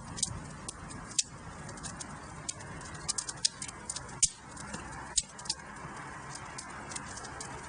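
Wood fire crackling in a fireplace: a steady soft hiss with scattered sharp pops, a few of them close together about three seconds in.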